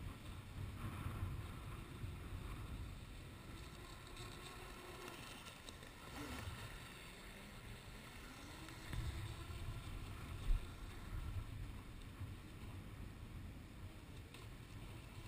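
Electric motor and propeller of a Kyosho Hurricane RC boat running at a distance, a faint whine whose pitch rises and falls as the boat speeds and turns, over a low rumble. A single short thump about ten seconds in.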